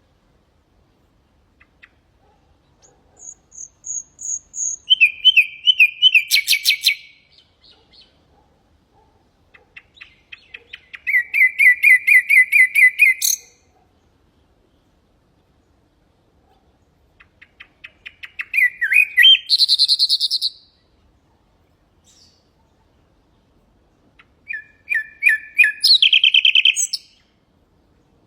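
Common nightingale singing four separate song phrases. Each phrase opens with soft repeated notes that quicken and grow louder, then breaks into loud rapid trills and whistled notes, with pauses of a few seconds between phrases.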